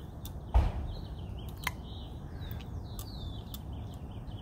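Small birds chirping faintly over steady outdoor background noise, with a single heavy thump about half a second in and a sharp click about a second later.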